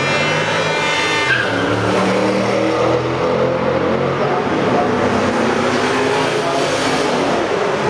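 Ford Mustangs driving past on a race track, their engines making a steady low note that wavers in pitch. A high horn-like tone with many overtones stops about a second in.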